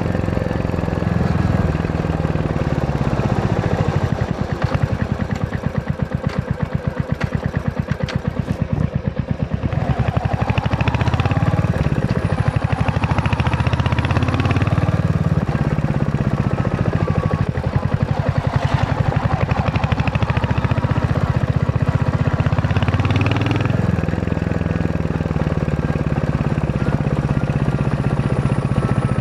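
Royal Enfield Hunter 350's single-cylinder engine running under way, its exhaust pulsing steadily. About four seconds in the revs and loudness drop for several seconds, then pick up again and vary with the riding.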